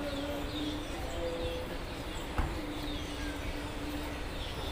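Birds chirping over and over in short downward-sliding calls, above a steady low rumble of outdoor ambience, with a faint held low tone underneath.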